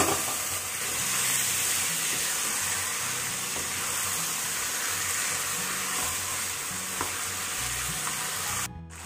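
Raw chicken pieces sizzling in hot oil and onion-tomato masala in a frying pan as a wooden spatula stirs them, a steady frying hiss that cuts out abruptly near the end.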